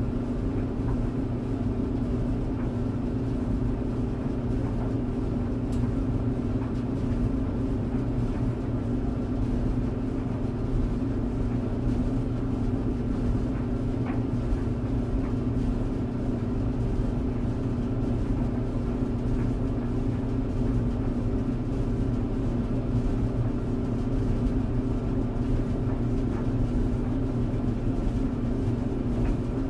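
Clothes tumble dryer running: a steady, unbroken hum with several low tones held level, and a faint tick now and then.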